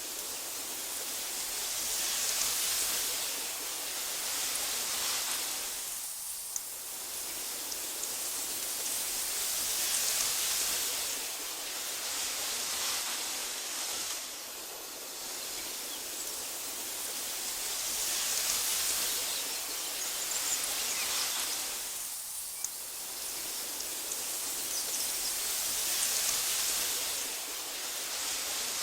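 Wind blowing through tall meadow grass, a steady high hiss that swells and eases in slow gusts every few seconds, dropping into brief lulls twice.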